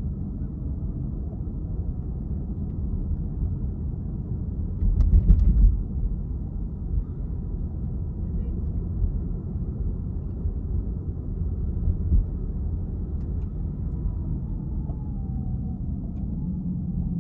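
Car driving in city traffic: a steady low rumble of tyres and engine, heard muffled as from inside the cabin. About five seconds in there is a brief, louder thump, like a wheel going over a bump.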